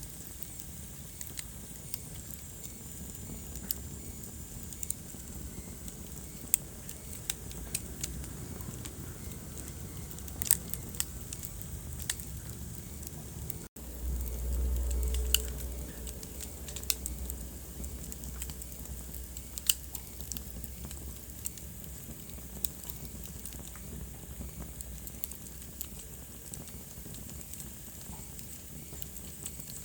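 Wood fire crackling, with irregular sharp pops and snaps over a steady low rumble. About halfway through the sound cuts out for an instant, then a louder low rumble runs for about two seconds.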